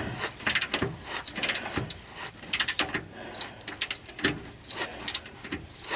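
Ratchet wrench clicking in short, irregular strokes while tightening a bolt, with small metal taps and knocks of the tools.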